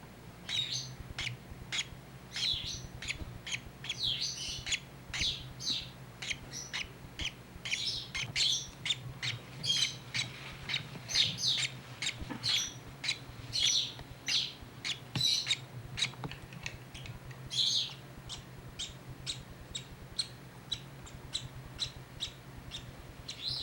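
Hand-raised baby bird giving short, high-pitched begging chirps over and over, a few a second: the hungry calls of a nestling wanting food.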